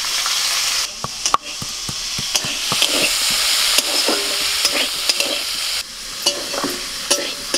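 Manila tamarind (gilipi) fruits sizzling as they fry in hot mustard oil in a steel kadai, with a metal spatula scraping and clicking against the pan as they are stirred.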